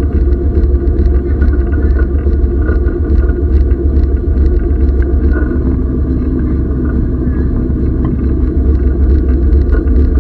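Historic train running along the track: a loud, steady low rumble with light rattling clicks scattered through it.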